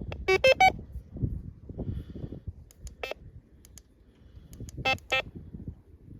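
Short electronic beeps in quick clusters, a few near the start, a single one midway and another few near the end, stepping between different pitches. Low irregular thuds and knocks of handling run underneath.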